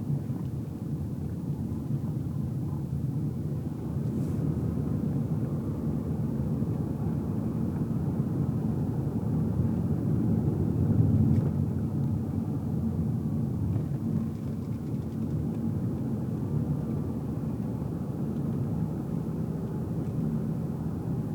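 Car interior while driving: a steady low rumble of tyres on the road and the engine, briefly louder about halfway through.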